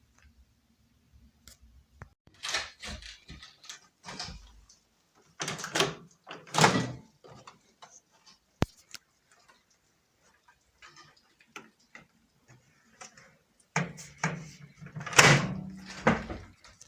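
Irregular knocks, clicks and scraping of objects being handled, in clusters, with one sharp click about halfway through.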